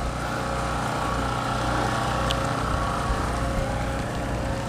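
Portable generator engine running steadily at a constant speed, with one light tick about two seconds in.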